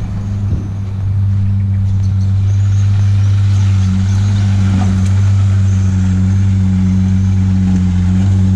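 Car engine running at a steady speed, a constant low drone that grows louder about a second in and then holds even.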